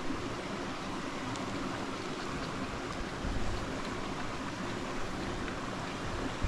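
Wind buffeting the microphone: a steady rush with low rumbling gusts, the strongest about three seconds in.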